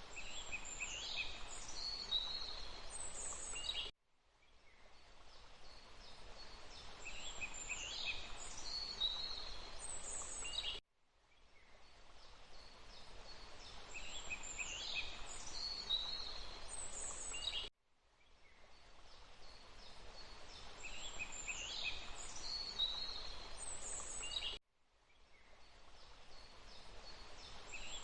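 Steady water noise with a songbird singing bright, descending phrases over it. The same few-second recording repeats about every seven seconds: each time it cuts out abruptly and fades back in over a couple of seconds, four times in all.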